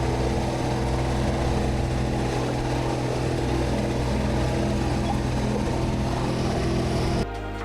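Steady engine running with a low, even hum that cuts off abruptly near the end.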